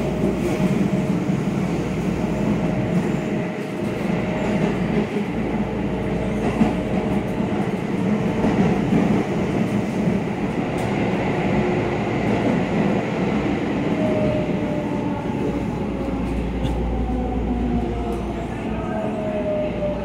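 JR West 281 series Haruka limited express train running, heard from inside its door vestibule as a steady rumble. About two-thirds of the way in, a whine begins to fall steadily in pitch as the train slows to stop at a station.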